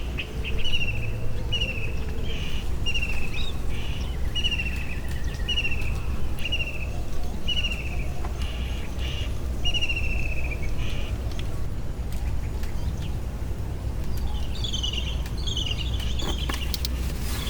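A bird calling over and over, a short falling note about once a second, which stops about ten seconds in; a few seconds later different, higher chirps come in. A steady low rumble lies underneath.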